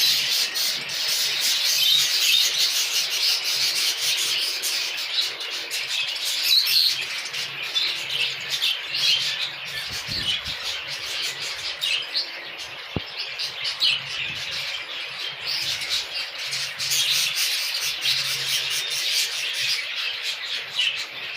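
A flock of exhibition budgerigars chirping and chattering continuously, many overlapping calls.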